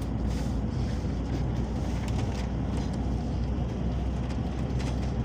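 Inside a Peugeot Boxer minibus on the move: a steady low engine and road rumble, with scattered light rattles and clicks from the cabin.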